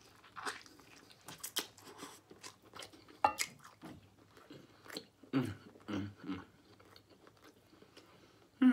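Close-miked chewing of smoked turkey leg meat: wet mouth sounds and lip smacks with scattered clicks. A few short low hums come a little past halfway.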